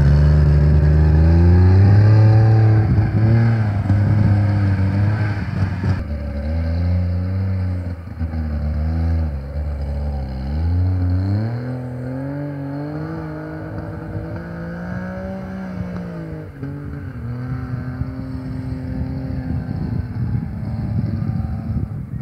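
DKW Munga's three-cylinder two-stroke engine under way off-road, its revs rising and falling again and again as the driver works the throttle and gears. It grows fainter as the vehicle moves away.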